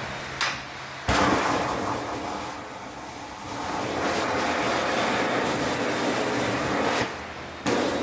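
High-pressure spray washing an air conditioner, starting suddenly about a second in, easing briefly, then running steadily until it cuts off near the end and starts again just after.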